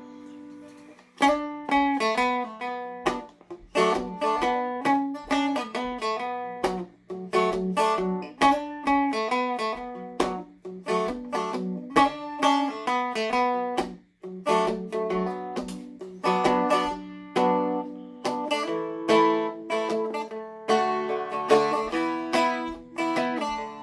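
Seagull Merlin M4, a four-string fretted dulcimer, flatpicked: a single-note melody of plucked notes over a low drone that keeps ringing beneath it, with a brief break about halfway through.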